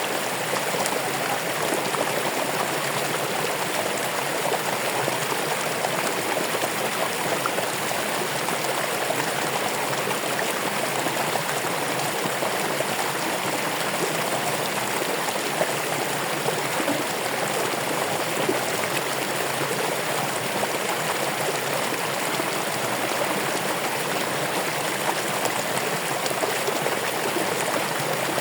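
Running water flowing steadily: an even, unchanging splashing rush like a small stream.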